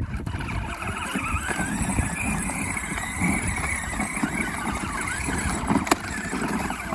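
A child's ride-on toy tractor loaded with rocks, driving along: a wavering motor whine over the rumble of its wheels rolling on hard ground. There is a single sharp click about six seconds in.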